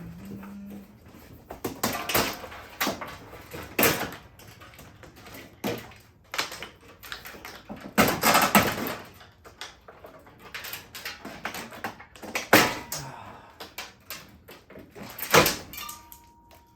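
Scrap front-load washer being worked on by hand: irregular clunks, rattles and scraping of metal parts as its wiring is pulled out. The loudest knocks come about two, four, eight, twelve and fifteen seconds in.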